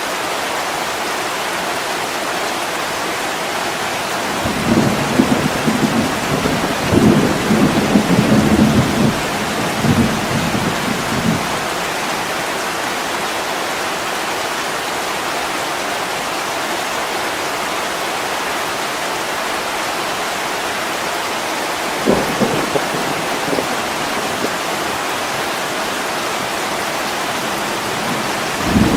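Steady heavy rain pattering on window glass, with low rolls of thunder swelling from about five to eleven seconds in and again briefly around twenty-two seconds.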